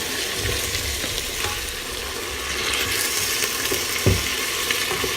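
Chopped vegetables sizzling steadily as they sauté in olive oil in a pot, with a single knock about four seconds in.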